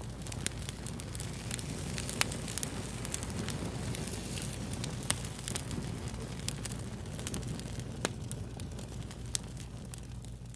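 Fire crackling steadily, with frequent sharp pops and a few louder snaps, over a low steady hum.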